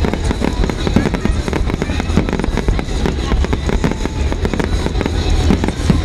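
Fireworks display: a dense, continuous run of bangs and crackling bursts.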